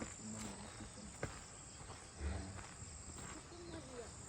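Steady high-pitched chirring of insects, with a few low thumps and a sharp click about a second in.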